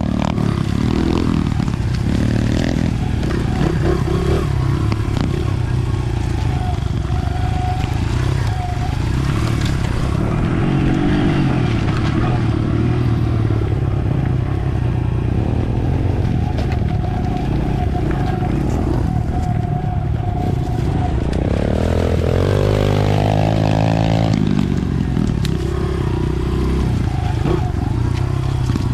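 Dirt bike engine running steadily while being ridden along a trail, with a brief change in engine pitch a little past twenty seconds in.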